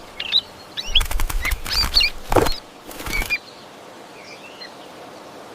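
A bird's wings flapping in several quick bursts through the first half, with short high chirps over them and a few fainter chirps afterwards.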